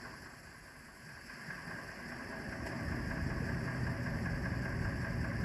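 Low rumbling noise that grows louder about two seconds in and then holds steady, over a faint steady hiss.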